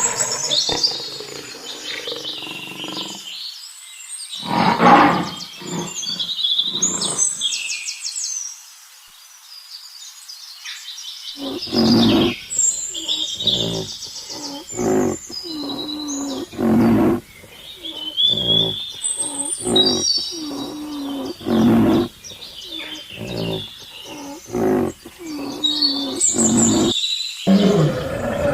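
A run of short animal calls, one after another, over high bird chirping and twittering, with a quieter stretch about a third of the way in.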